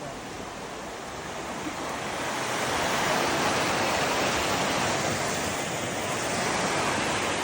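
Rushing water: a steady, even wash of sound that grows louder about two to three seconds in, then holds.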